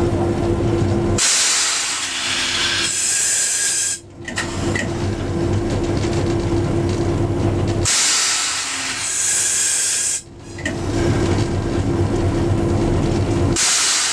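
Loud hissing of escaping air, heard twice for about three seconds each time. Each burst cuts off sharply and is followed by a steady machine hum, and a third hiss starts near the end.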